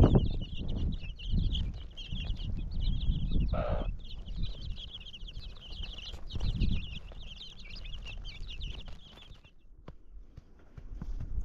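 Many birds chirping and peeping rapidly in a dense, continuous chorus, with low thumps and rumble underneath; the chirping stops about nine and a half seconds in.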